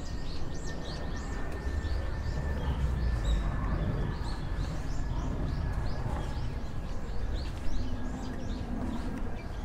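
Small birds chirping busily, a steady run of short falling chirps, over a low outdoor rumble.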